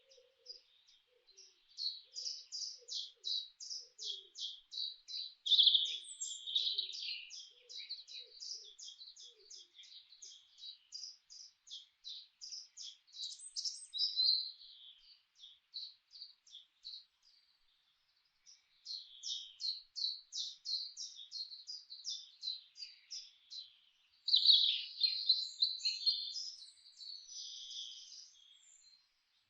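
Songbirds chirping in long runs of quick, high notes, about three a second, with a short pause about two-thirds of the way through and louder bursts of song twice.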